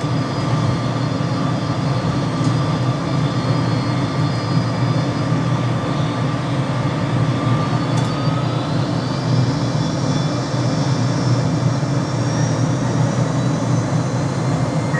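McDonnell Douglas DC-10 jet engines running at high thrust during the takeoff roll, heard from the cockpit: a steady, loud rumble with a whine that rises in pitch about eight to ten seconds in.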